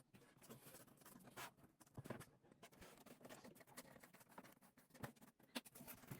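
Faint scattered clicks and light rustling, as of small craft parts being handled and fitted by hand.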